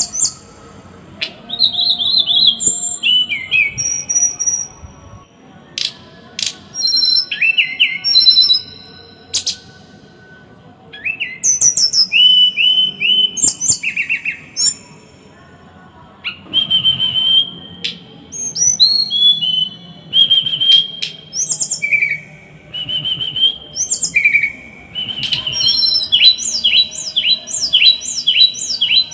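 Small songbird singing in bursts of fast, sharp, repeated high notes, the tight, harsh 'tembakan' phrasing prized in tutor song for caged songbirds. Each burst is separated by a pause of a second or two, and near the end comes a dense rapid run of clipped notes.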